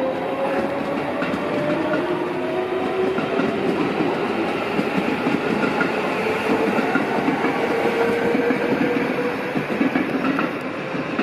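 JR West electric commuter train running past, its wheels clattering over the rail joints and points, with a whine that rises and falls slowly in pitch.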